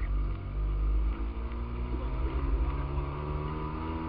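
Fiat 126p's air-cooled two-cylinder engine heard from inside the cabin under rally driving, its note dipping and then climbing as the car accelerates near the end.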